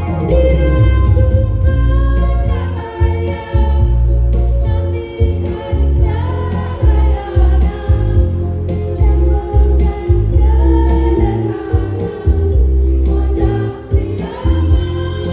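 Choir of older men and women singing together over an instrumental accompaniment with a pulsing bass line.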